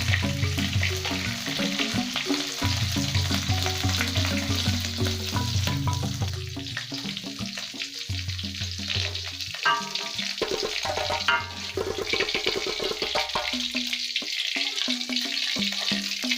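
Waterhen meat sizzling as it fries in hot oil, a steady crackling hiss, with background music playing over it.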